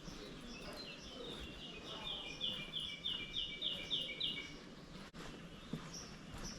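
A songbird singing a run of about ten quick, identical high notes, roughly three a second, over steady outdoor background noise.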